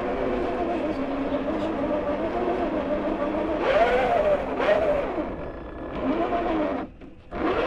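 Traxxas TRX-4 RC crawler's electric motor and drivetrain whining, its pitch rising and falling with the throttle, with two sharper revs about four and five seconds in; the sound drops away near the end.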